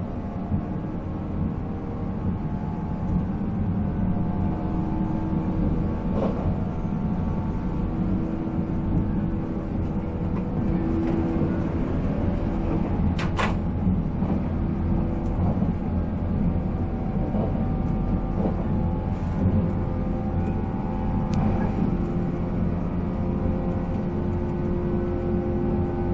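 485-series electric train running at speed, heard from on board: MT54 traction motors and gears giving a steady whine over the rumble of the wheels on the rails. A few sharp clicks from the wheels over rail joints, the sharpest about halfway through.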